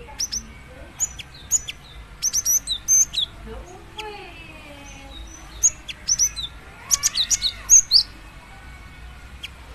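Female cinereous tit (gelatik batu) calling in bursts of short, sharp, high chirps separated by pauses; this is the call a female uses to draw a male.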